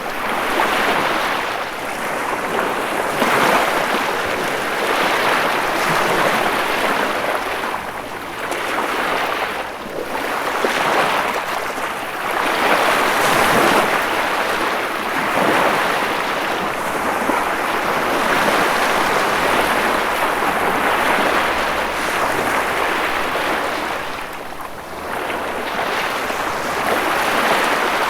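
Ocean surf: waves breaking and washing continuously, swelling and easing every few seconds.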